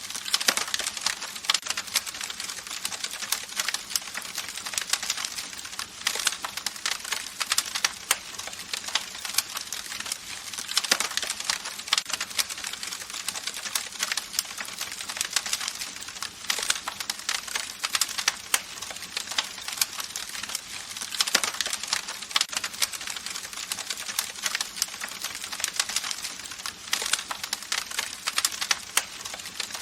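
Campfire crackling: dense, irregular pops and snaps of burning wood over a steady hiss.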